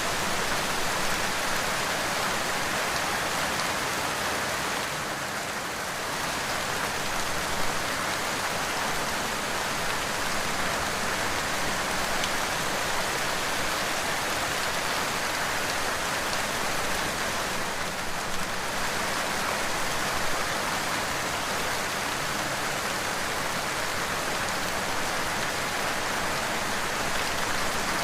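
Steady rain falling, a dense, even patter of raindrops on a surface.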